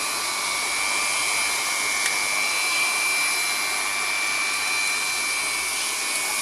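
Automatic hot-air banner welding machine running, its Leister hot-air gun blowing steadily as it welds PVC banner: a continuous hiss with a high, steady whine.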